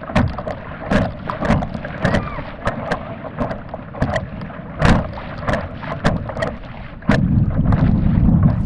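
Kayak paddling on a river: irregular knocks and splashes from the paddle and hull, over a low wind rumble on the microphone that grows louder about seven seconds in.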